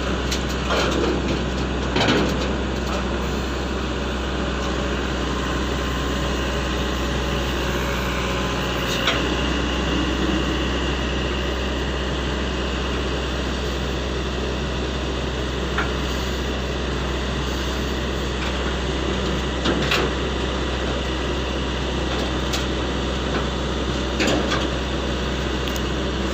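SANY excavator's diesel engine running steadily, with a few short knocks now and then.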